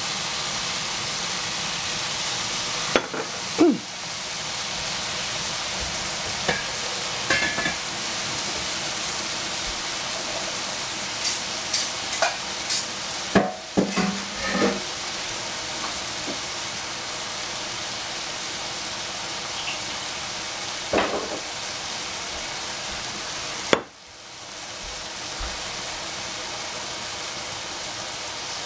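Fried noodles with cabbage and egg sizzling steadily in a frying pan after a splash of soy sauce, with scattered small pops and clicks. The sizzle drops out sharply for a moment about three quarters of the way through, then comes back.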